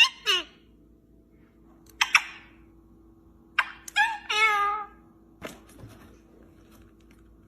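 A cat meowing several times, short calls at first and a longer drawn-out meow about four seconds in, followed by a single knock.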